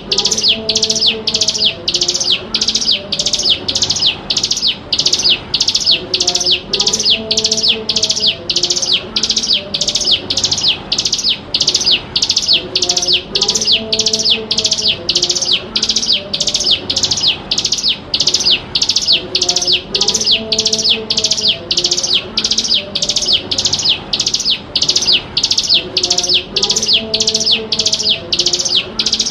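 Ciblek gunung, a mountain prinia, calling in a steady rapid series of high, sharp chirps, about two a second, with no pause. It is a lure call of the kind used to teach young birds their song.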